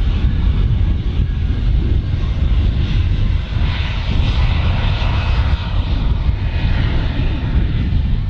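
Airliner engines running loud and steady, with a deep rumble throughout and a rushing hiss that swells in the middle and then eases.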